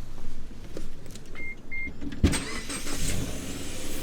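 Two short electronic beeps from a car, then a sharp thump a little after two seconds in, followed by a steady electric motor whine with light rattling, as of a power liftgate or power window moving.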